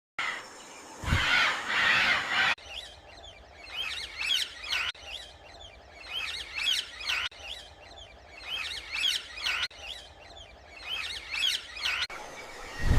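Small birds chirping: many short, high calls in quick clusters. The first couple of seconds are a rush of wind-like noise. After that the same stretch of chirping repeats about every two and a half seconds.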